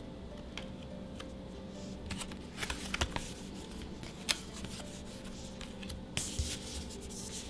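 Magic: The Gathering trading cards being handled and slid against one another. There are light snaps and clicks of card stock, most of them around two to three seconds in, and a short rustle near the end.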